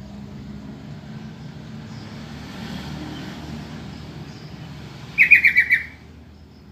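Yellow-vented bulbul (trucukan) giving a quick burst of about six loud chattering call notes lasting under a second, about five seconds in, over a low steady background rumble.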